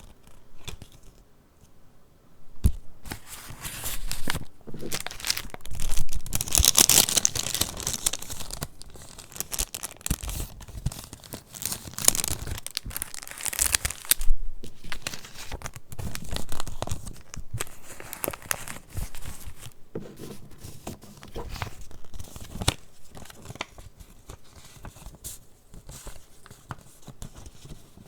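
Paper pages of a handmade junk journal being handled and turned, crinkling and rustling. It starts after a quiet couple of seconds and is loudest in two stretches, early and midway, then goes on more softly.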